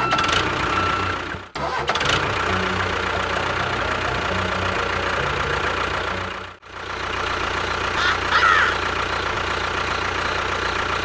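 Engine running steadily, broken by two sudden brief dropouts, about a second and a half in and just past six seconds.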